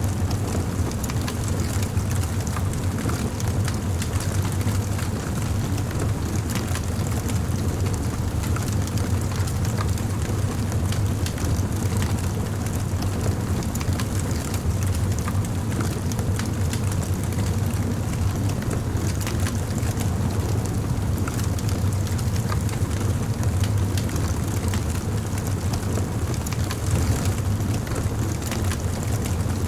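Bonfire of wood burning: a steady low rumble of the flames with frequent small crackles and pops.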